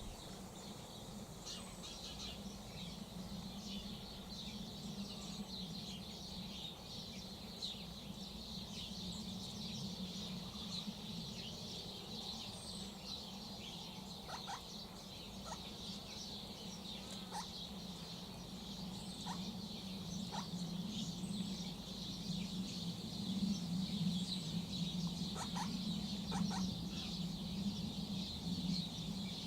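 Outdoor bird ambience: many small birds chirping and twittering high and thin throughout, over a steady low murmur that grows louder about two-thirds of the way in.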